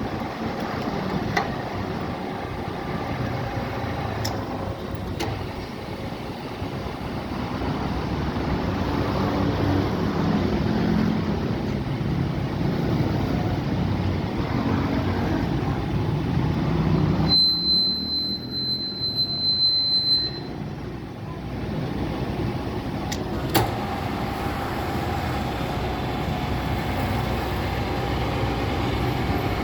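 Large radial arm drill press running, a steady heavy motor and gearbox hum with a few sharp metallic clicks. About two-thirds of the way through, the sound briefly changes, with a steady high whine for about three seconds.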